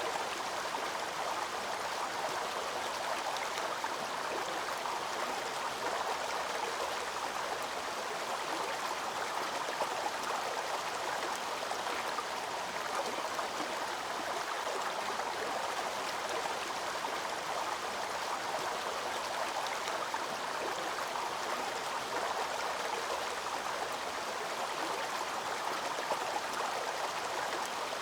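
Waterfall cascading, a steady, even rush of falling water with no breaks or changes.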